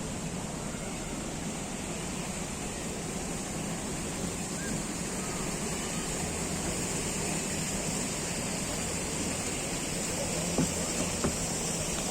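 Steady outdoor ambience: a continuous rush of distant road traffic with a steady high hiss over it, and two soft knocks near the end.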